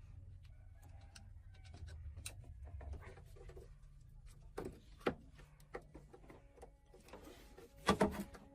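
Scattered clicks and knocks over a low rumble, with two sharper knocks about five seconds in and a quick cluster of loud knocks near the end.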